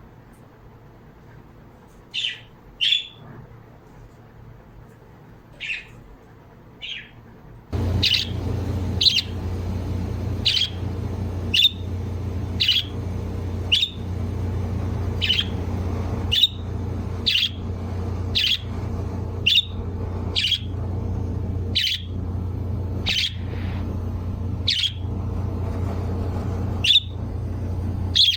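A pet bird calling over and over with one short, high chirp that drops in pitch, a few scattered calls at first and then about one a second. About eight seconds in, a steady low hum comes on beneath the calls.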